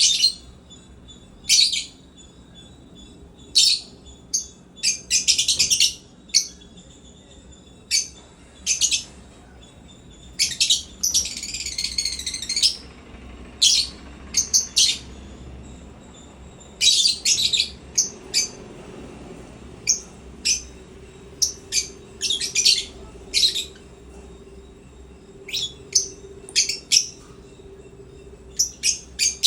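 African lovebirds chirping: short, sharp, high-pitched calls at irregular intervals, some in quick pairs or clusters, with a longer warbling chatter about eleven seconds in.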